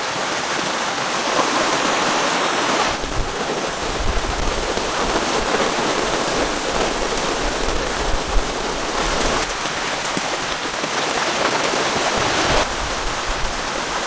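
Heavy rain pouring steadily. From about three seconds in, a low rumble of wind on the microphone joins it.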